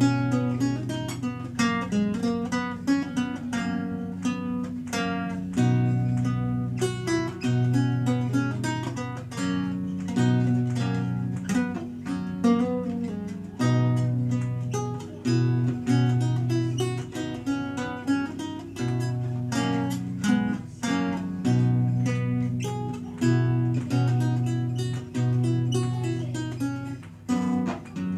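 Renaissance lute played solo, a steady stream of quick plucked notes over held bass notes, several voices sounding at once.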